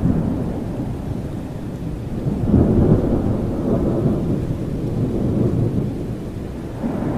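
Thunder rumbling over steady rain. A roll swells about two and a half seconds in and dies away, and another begins building near the end.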